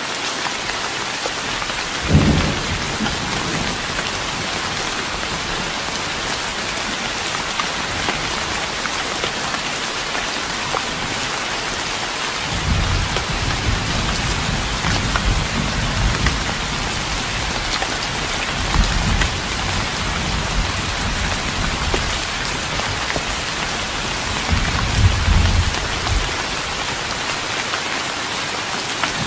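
Steady rain falling on a wooden deck, with thunder: a short low crack about two seconds in, then long rolling rumbles through the second half.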